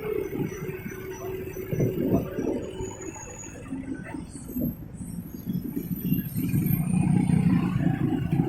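Motorcycle ride through dense rush-hour traffic: the bike's own engine and the engines of surrounding vehicles run steadily together, with the engine hum growing louder from about six seconds in.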